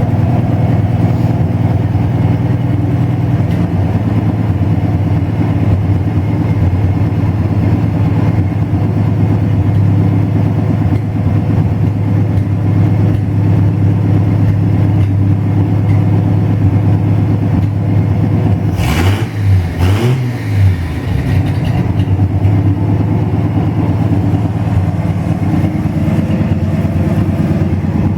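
Chevrolet 235 inline-six running steadily at idle during its first start-up after the build. About two-thirds of the way through, two sharp knocks come a second apart while the engine note wavers briefly, then it settles back to the steady idle.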